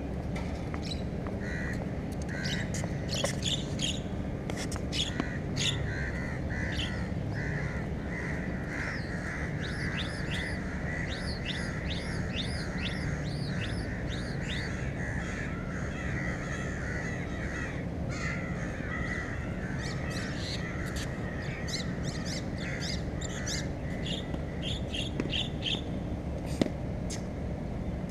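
Birds calling and chirping throughout, with runs of quick repeated chirps, over a steady low background rumble; one sharp knock near the end.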